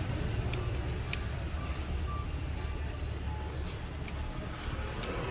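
Scattered light clicks and scrapes of hand tools working on a phone's frame to clear old battery adhesive, over a steady low rumble.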